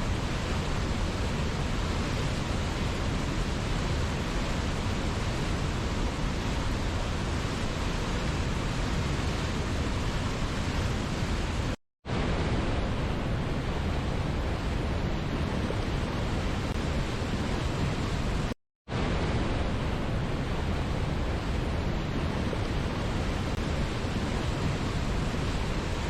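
Steady, even rushing of a waterfall, a constant hiss from low to high pitches. It cuts out to silence twice for a fraction of a second near the middle.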